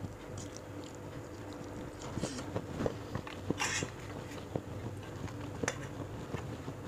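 Close-miked mouth sounds of someone chewing and crunching raw vegetables, with scattered wet clicks and a few sharper crunches about two to four seconds in.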